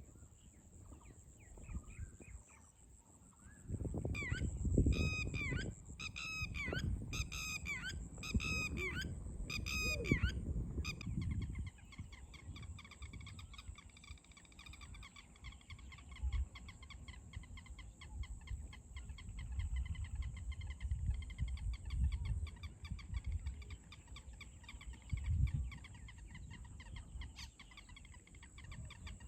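A bird calling: a run of about six loud calls, each rising then falling in pitch, about 4 to 11 seconds in. Under them is a low rumble and a steady high-pitched whine, and fainter rapid chirping follows.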